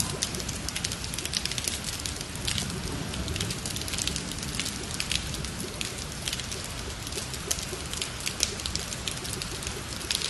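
Heavy rain falling on a wet asphalt road: a steady hiss dense with sharp splats of individual drops.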